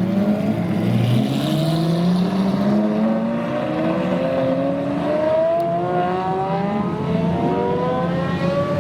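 Several supercar engines accelerating together, their overlapping engine notes climbing steadily in pitch over several seconds.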